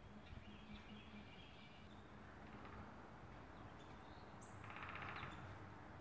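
Faint songbird calls: some thin twittering early on, then a short buzzy trill near the end, over a faint low hum.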